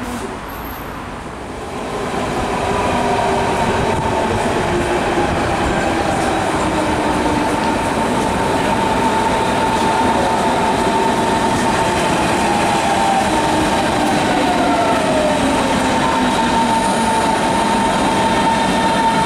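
Berlin S-Bahn class 481 electric multiple unit running into the platform and braking to a stop: steady rolling rail noise with a high steady whine, and whines that drop in pitch as the train slows.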